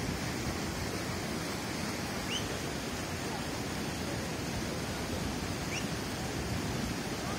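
Steady rushing of fast river water, with two faint short high chirps about two seconds and six seconds in.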